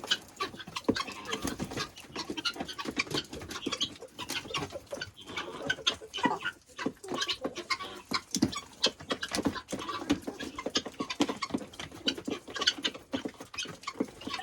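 Backyard chickens clucking and calling, over many short, irregular clicking and scratching sounds.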